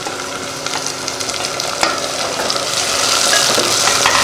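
Shallots and chopped tomato frying in sesame oil in a pot, sizzling as a spatula stirs them with small scraping clicks. The sizzle grows louder from about three seconds in.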